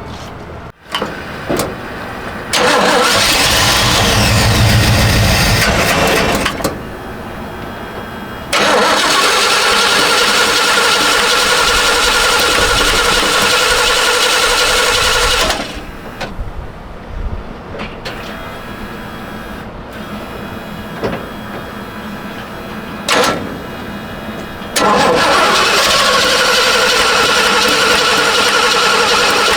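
Chevrolet 350 small-block V8 being cranked over on the starter in three long attempts of several seconds each, with quieter pauses between them.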